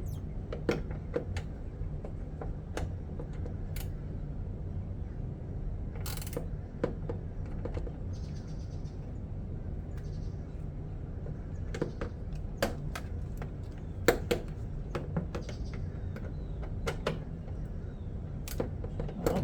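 Scattered sharp clicks and clinks of metal sockets and hand tools being handled and tried on screws, over a steady low hum.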